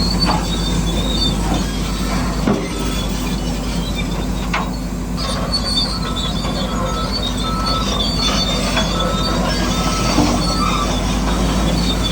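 Radio-controlled model bulldozer at work: a steady motor and gearbox drone with intermittent high squealing and a few sharp clicks.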